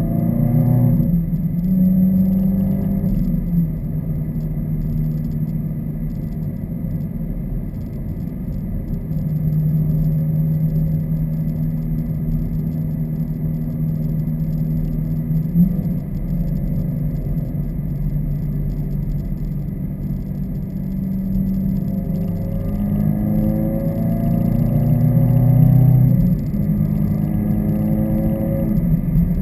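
Subaru WRX's turbocharged flat-four with axleback muffler deletes, driving at steady engine speed with a loud exhaust rumble. Late on the pitch climbs under acceleration, drops at a gear change and climbs again.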